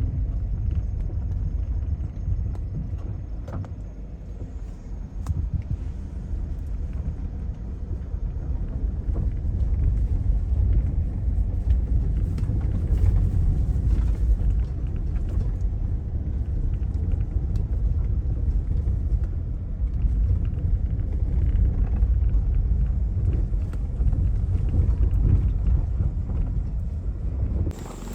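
Car driving along a rough dirt track: a steady low rumble of engine and tyres with scattered small knocks.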